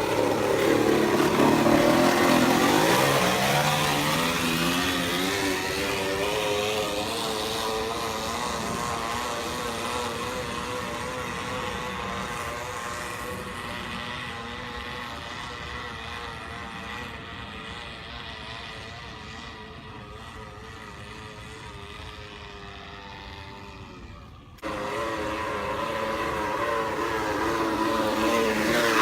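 A small motorbike's exhaust note revving up as the bike pulls away, then fading steadily as it rides off. About 25 seconds in the sound cuts abruptly and the engine is heard again, louder and getting closer.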